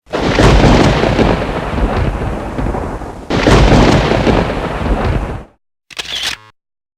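Thunder sound effect: two loud claps, each starting suddenly and rumbling away, the second about three seconds in. A short clicky effect sounds briefly near the end.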